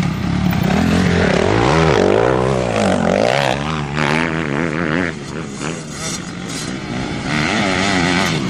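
Motocross bike engines revving hard through the gears, the pitch climbing and dropping back again and again as they shift. The sound eases off a little past the middle and swells again near the end.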